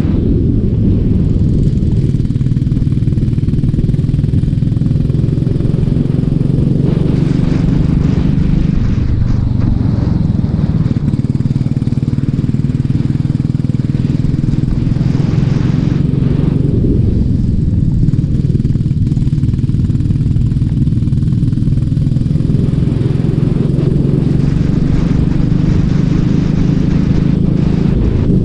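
Racing kart engine running hard, heard onboard, its pitch rising and falling a little with speed, with two brief bursts of hiss.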